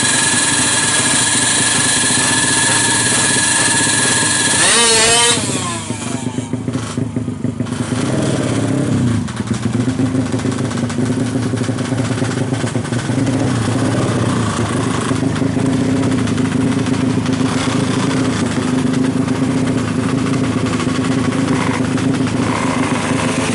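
Tuned 120cc two-stroke Yamaha F1ZR engine held at high revs, then the throttle is released about five seconds in and the revs fall away sharply; it then runs on at a low, uneven idle with small blips.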